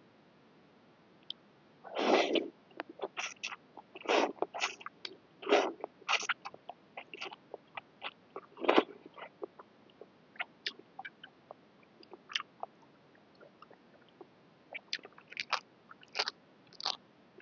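Close-up eating sounds: a person chewing and biting through a bowl of boat noodles, irregular wet clicks with several louder bursts about 2, 4, 5.5 and 9 seconds in.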